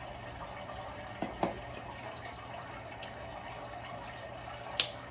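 Steady background hiss over a low hum, with two light clicks about a second in and a sharper click near the end.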